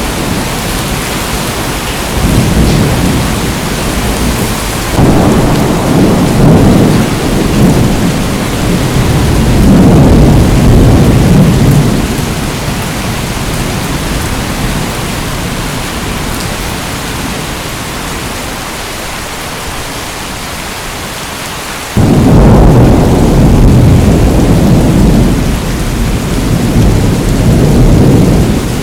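Steady heavy rain with repeated rolls of low thunder. The rumbles swell about two, five and ten seconds in, and a loud roll starts suddenly about twenty-two seconds in and lasts several seconds.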